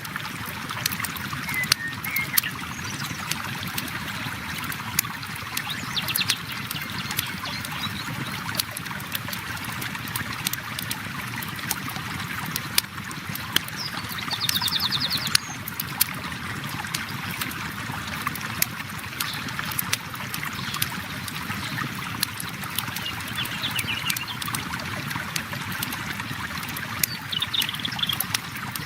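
River water flowing and trickling steadily, with a campfire crackling in sharp pops throughout. A bird's short trilling calls come through a few times, the clearest about halfway.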